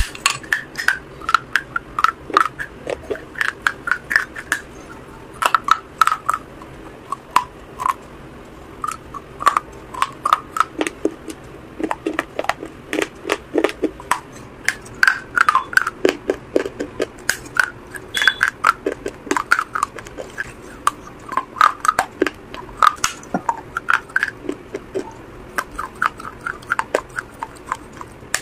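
Crunching and chewing of baked terracotta clay: a steady run of sharp, crackly bites and grinding chews, several a second.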